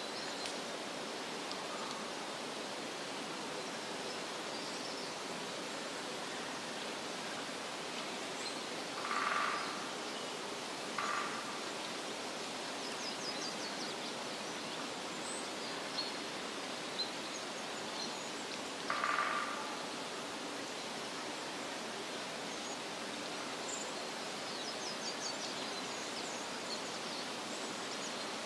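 Forest ambience: a steady, even hiss of wind or running water, with scattered faint high bird chirps. Three louder short calls stand out, about 9, 11 and 19 seconds in.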